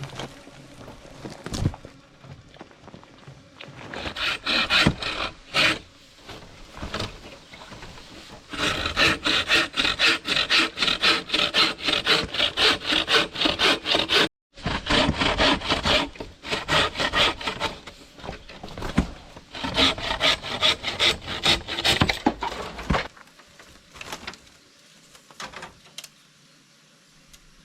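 Hand saw cutting through wood with quick, rhythmic back-and-forth strokes. The strokes come in runs, break off for a moment about halfway, then run on before stopping a few seconds before the end.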